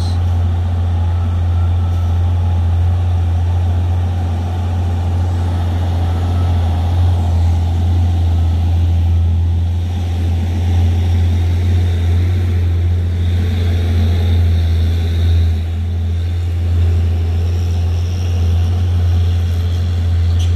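Heavy truck diesel engine running with a steady deep drone.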